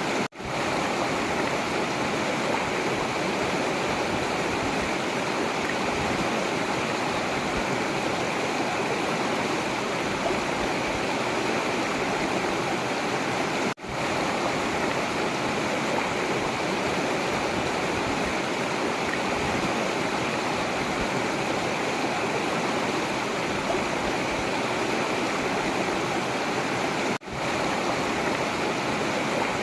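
Forest river flowing: a steady rush of water that cuts out very briefly three times, about 13 seconds apart.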